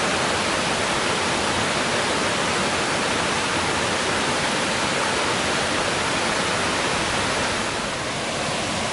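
Steady rush of falling water from the Kuang Si waterfall cascades, an even, dense noise spread from low to high pitch.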